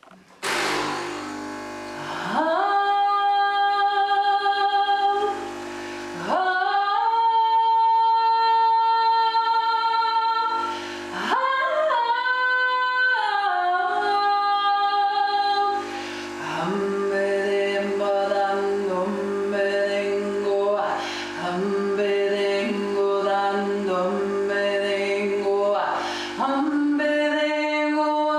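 A woman singing long, held wordless notes, sliding up or down into each new pitch, over the steady hum of a Nespresso coffee maker used as a drone. The lowest part of the hum stops near the end.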